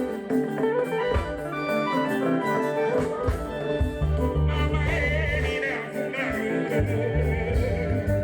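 Congolese band playing live: guitar lines over deep bass notes, with a voice singing from about halfway.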